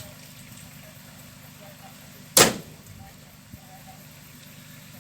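A vehicle engine idling steadily, with one sharp, loud bang about two and a half seconds in.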